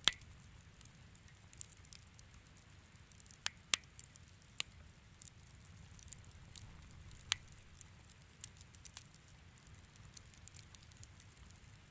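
Wood fire crackling in a fireplace: scattered sharp pops, the loudest right at the start and others about three and a half, four and a half and seven seconds in, over a faint low rumble.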